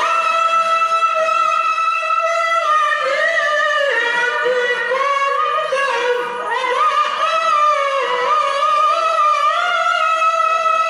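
A male qari chanting Qur'an recitation in a very high register, one long melismatic phrase with held, wavering notes and slow ornamental turns in pitch.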